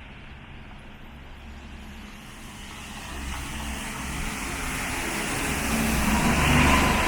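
A car approaching on a rain-wet street, its tyre hiss and engine growing steadily louder over the last few seconds.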